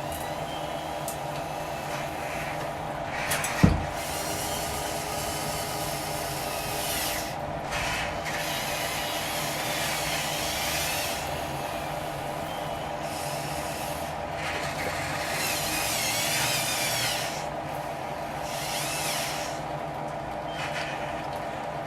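Radio-controlled construction model running, with a steady motor whine and several stretches of scraping and rasping as it works material. A sharp knock comes a little under four seconds in.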